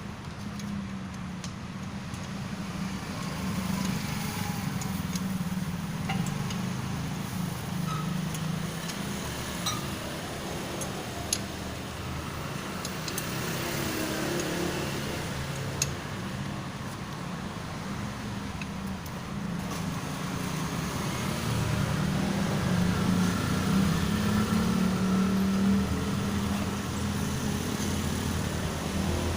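Low, steady engine-like rumble that swells toward the end, with a few sharp clicks scattered through it.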